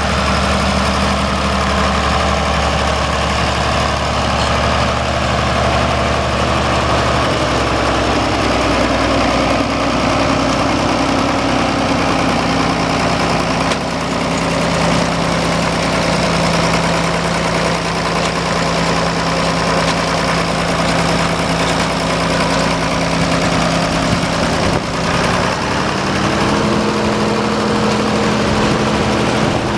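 1968 Case 930 tractor's engine running, its speed stepping up about seven seconds in and again near the end.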